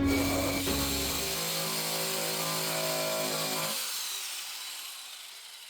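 Power sander grinding paint off a Jeep Grand Cherokee's body panel, with a few held music chords underneath; the sound fades out over about four seconds.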